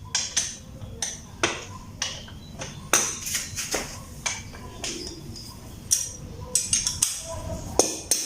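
Metal hand tools (wrench and socket) clinking and knocking against each other and the motorcycle's rear wheel bolts: about a dozen irregular sharp clicks, each with a short metallic ring.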